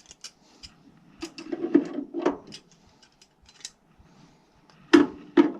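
Clicks, taps and rattles of hand tools and metal parts handled inside a gas furnace cabinet, with two sharp knocks near the end.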